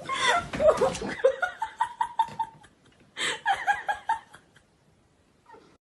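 People laughing in two bouts: a long run of laughter, then a shorter burst about three seconds in, stopping well before the end.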